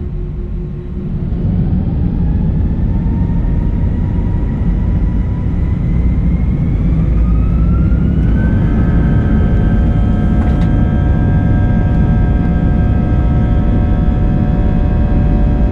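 Airbus A320's IAE V2500 jet engines spooling up for takeoff, heard from inside the cabin: a heavy rumble with a whine that rises in pitch for about seven seconds, then holds steady at takeoff thrust.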